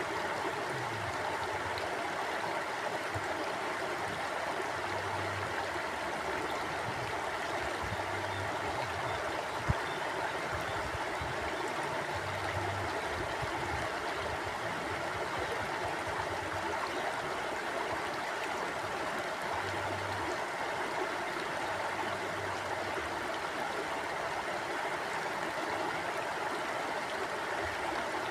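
Stream water flowing steadily over rocks, an even rushing with low gurgles underneath. A single short tap or knock stands out about ten seconds in.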